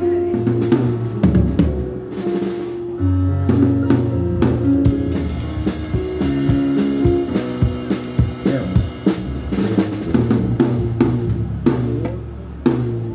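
A rock band playing live at a sound check: a drum kit with snare, kick drum and rimshots over held bass and guitar notes, with cymbals washing in about five seconds in.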